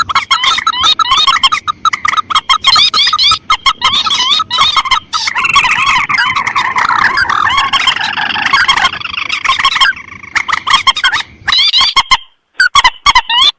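Recorded lure calls of rice-field rails (mandar and tikusan): rapid, loud, repeated chattering calls, several birds overlapping into a thicker chorus in the middle, broken off abruptly a few times near the end.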